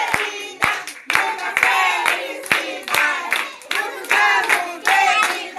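Several voices singing together over rhythmic hand claps, about two claps a second.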